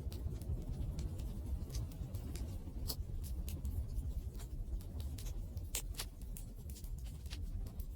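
Wood campfire burning: irregular sharp crackles and pops over a low steady rumble of the flames, with the strongest pops about three and six seconds in.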